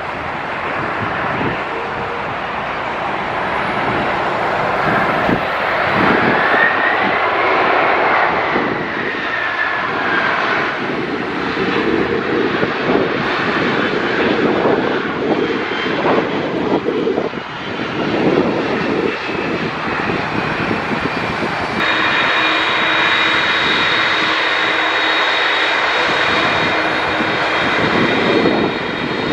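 Jet engines of a FedEx McDonnell Douglas MD-11F trijet freighter on landing approach, a loud steady rush with an engine whine that rises and then falls as it passes. About two-thirds of the way in the sound changes suddenly to a steadier noise with high whining tones.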